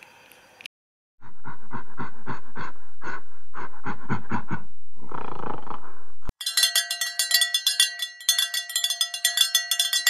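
A gorilla giving a run of short calls, about three a second, ending in a longer, noisier call. About six seconds in, cowbells start clanking rapidly and ringing.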